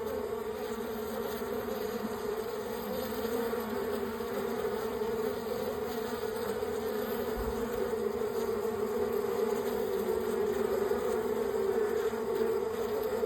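Honeybees buzzing steadily around an opened hive, a dense, continuous hum of many bees.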